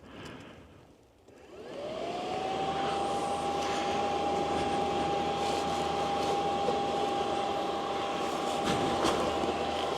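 Electric radiator cooling fan of a 2024 Yamaha Ténéré 700 switching on about a second and a half in. It spins up with a rising whine that then holds steady over the rush of air, the fan cooling the hot engine.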